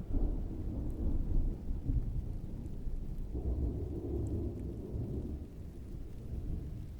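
Distant thunder rolling, a low rumble that swells right at the start and again about three and a half seconds in, over steady rain.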